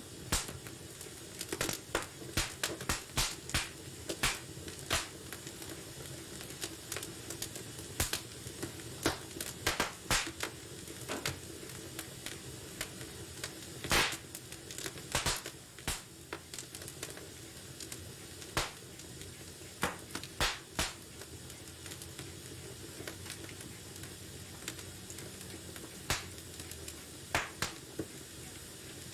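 Wood fire burning in a fireplace: irregular sharp crackles and pops over a steady low hiss of the flames, with clusters of pops early on and one louder pop about halfway through.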